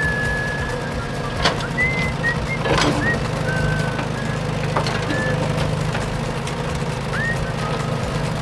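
A small motor hums steadily, with short whistle-like chirps scattered over it and a few sharp clicks.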